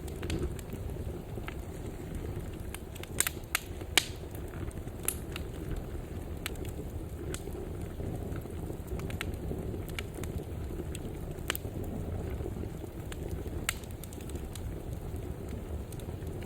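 Wood fire in a fireplace burning with a steady low rumble of flames and scattered sharp crackles and pops, a cluster of loud pops about three to four seconds in.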